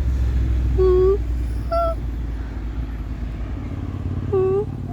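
Steady low rumble of a diesel engine running. It is broken by a few short pitched calls: about a second in, near two seconds, and again near the end.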